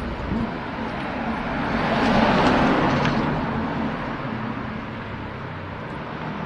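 Kawasaki ZX-14R inline-four engine running at idle with a steady hum. A broad louder swell rises and fades, peaking about two to three seconds in.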